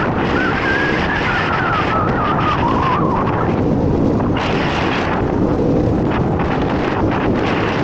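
Beta dirt bike engine running on a ride, mixed with heavy wind rush on the microphone. The engine note wavers up and down and falls away about three seconds in.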